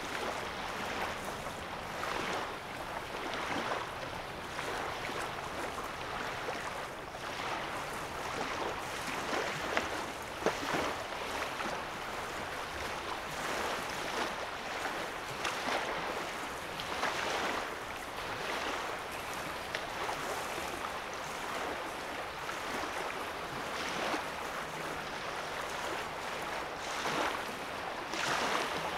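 Small lake waves lapping on a sandy shoreline: a continuous gentle wash with soft swells every second or two.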